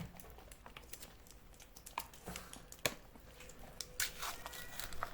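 Cats licking and eating a soft Pon Churu treat: faint, irregular wet clicks and light crinkling of its paper packaging, with a few sharper ticks.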